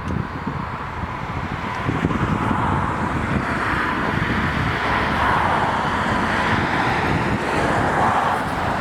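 Steady rush of road traffic, with some wind on the microphone.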